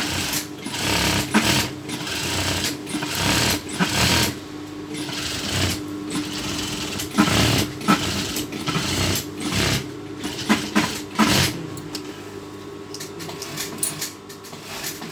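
Electric sewing machine stitching a seam, running in stops and starts with the needle ticking rapidly, a little quieter near the end.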